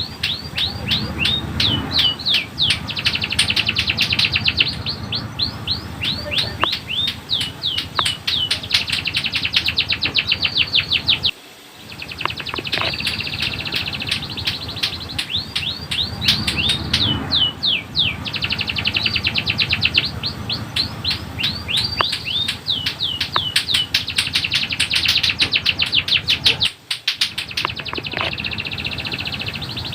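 Canary singing long rolling trills: rapid runs of repeated down-slurred notes, with two brief breaks, one about a third of the way in and one near the end.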